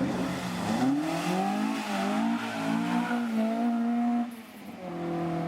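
Car engine accelerating away, its pitch climbing in the first second and then holding high. It eases off briefly about four seconds in, then pulls again.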